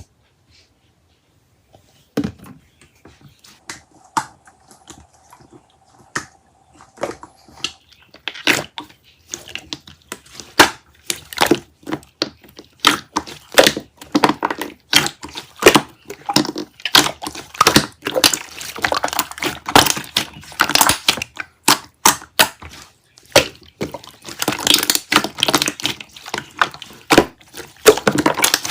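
Slime being squished and pressed by hand, making sticky clicking and popping sounds. They come sparsely at first, then quickly and densely from about eight seconds in.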